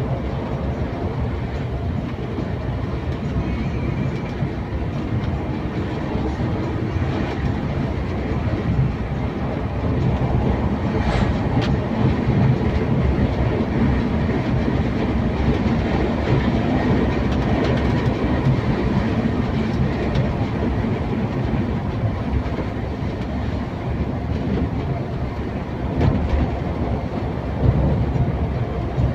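Scania K410iB coach on the move: a steady rumble of engine and road noise with rattles, and a couple of louder knocks near the end.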